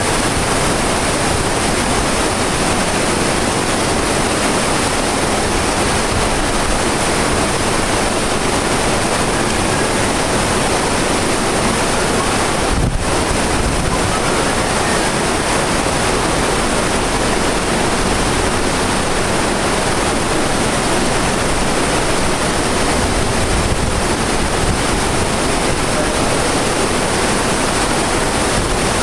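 Steady rush of a cruise ship's wake churning behind the stern, mixed with wind blowing on the microphone.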